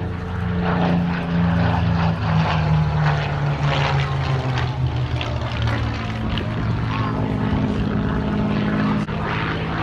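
Supermarine Spitfire's Rolls-Royce Merlin V12 engine droning as the fighter passes, its pitch falling steadily over the first several seconds as it goes by.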